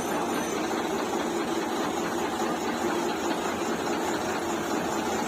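Heavy vehicle engine running steadily under load, from a crane pulling a loaded truck out of mud.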